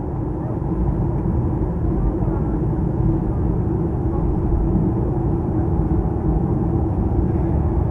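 Steady low cabin rumble inside a Boeing 737-800 on the ground after landing, from its engines and air systems.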